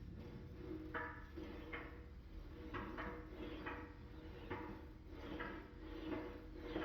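Sheet-metal panel being rolled back and forth through an English wheel with a low-crown bottom wheel, raising crown in the panel. Each stroke gives a short, faint scrape, about one every half second to a second.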